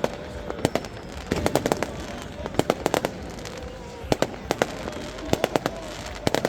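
New Year's Eve fireworks and firecrackers going off all around: repeated sharp bangs and cracks, often several in quick succession, over a steady background din.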